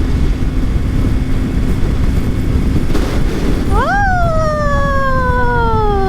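Wind roar and rumble on a helmet-mounted microphone over the steady drone of a Yamaha MT-03's parallel-twin engine at highway cruising speed. Near the end a voice rises into one long note that slides slowly downward.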